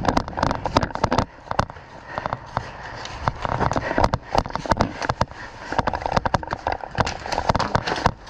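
Airsoft guns firing in an irregular string of sharp pops and clicks, shots following one another closely.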